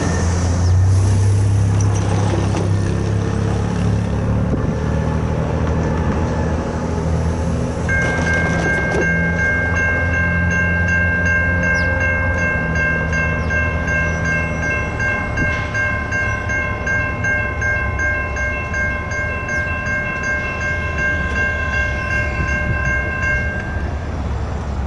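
Diesel locomotive rumbling past on a freight train. From about eight seconds in, a multi-chime air horn sounds one long held chord that stops shortly before the end.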